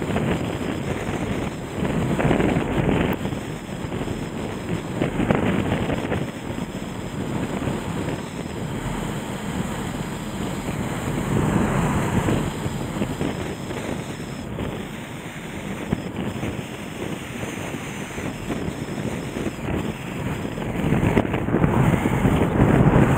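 The Nagara River in flood, swollen by typhoon rain: a steady rush of fast high water, with wind buffeting the microphone so that the noise swells and eases every few seconds.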